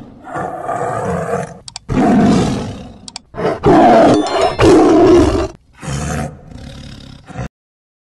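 Lion roaring: a series of deep roars, loudest in the middle, tapering to shorter, quieter grunts, then cutting off suddenly near the end.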